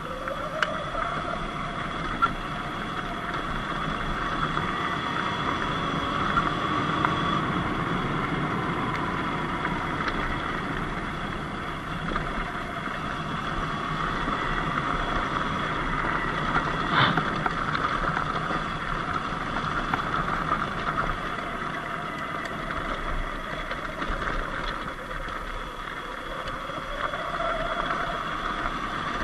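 Surron Light Bee electric dirt bike's motor whining as it is ridden, its pitch slowly rising and falling with speed, over steady tyre and wind noise. There is one sharp click about two-thirds of the way through.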